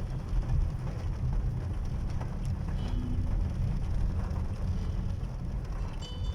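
Steady rain and road noise heard from inside a moving car: a constant low rumble with a hiss of rain over it.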